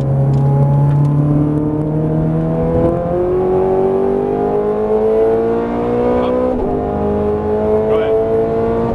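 Ferrari 430 Scuderia's V8 accelerating hard, heard inside the cabin: the engine note climbs steadily, drops sharply at an upshift about three seconds in, climbs again and drops at a second upshift about six and a half seconds in, then climbs once more.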